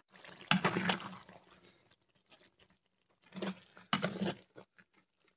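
Spatula scraping and knocking against a wok of thick, freshly fried chili sauce, in three short bursts of clicks and scrapes with quiet between them.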